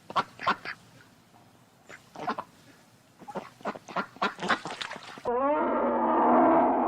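A duck quacking in short calls, a few at a time and then a quick run of them. After about five seconds a sudden cut brings in a louder, continuous animal call that holds its pitch.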